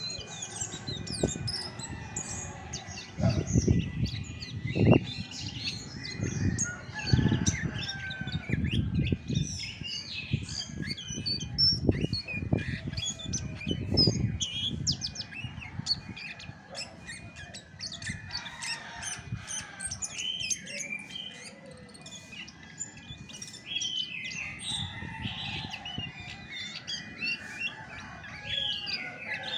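Chestnut-backed thrush singing a rapid, varied run of chirps and whistles. Several dull low thuds, the loudest sounds in the clip, come through the first half.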